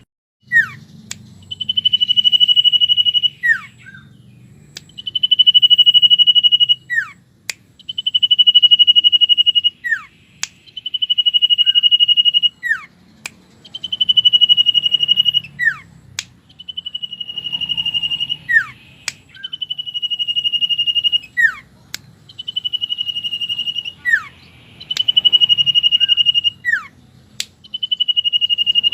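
Common iora (cipow) song: a long, steady, high whistle held for about a second, then a short falling note, repeated about every two and a half seconds, with sharp clicks between the phrases. It is a recorded song used as a lure call for trapping birds.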